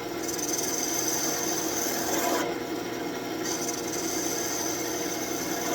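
Wood lathe spinning a birch blank while a turning tool shaves the wood: a steady scraping hiss over the lathe's hum. The cutting eases off for about a second, around two and a half seconds in.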